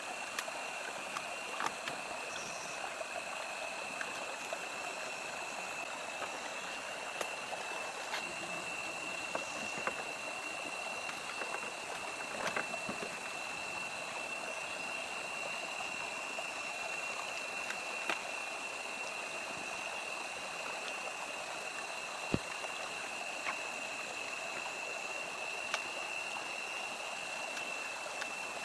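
Steady rush of running water, like a small stream, with a thin high steady whine over it and a few faint light clicks now and then.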